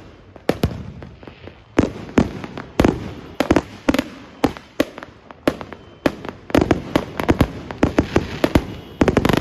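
Fireworks and firecrackers going off all around: dozens of sharp, echoing bangs at irregular intervals, coming thickest in quick clusters over the last few seconds.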